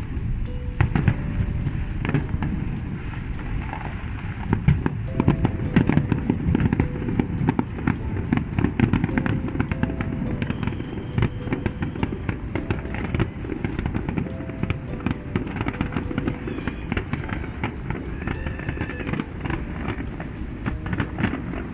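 A big fireworks display: continuous rapid bangs and crackling from shells bursting, several a second with no let-up, with music playing underneath.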